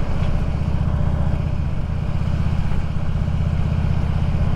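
Motorcycle engine running steadily, with a low, even drone and some wind noise over it.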